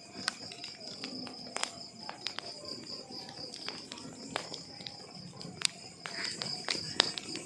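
Wood fire crackling: irregular sharp pops and snaps from burning logs, the loudest just before the middle and near the end, over a soft low hiss, with a steady high-pitched tone running underneath.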